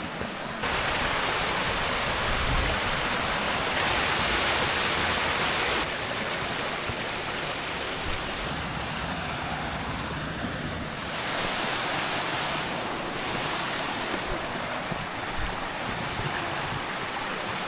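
Rushing water of a mountain stream or small waterfall, a steady rush that jumps louder just under a second in, louder again about four seconds in, and drops back about six seconds in.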